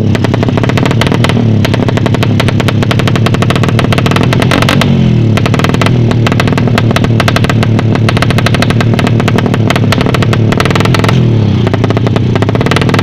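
Suzuki Satria FU motorcycle engine running with rapid exhaust pulses, its revs rising and falling about five seconds in and again near the end.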